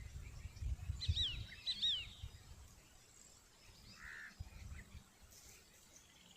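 Small birds chirping a few quick, high notes about a second in, over irregular low rumbling noise.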